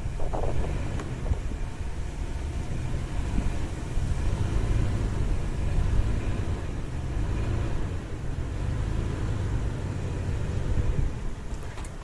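Steady low rumble of a car running, with no distinct events.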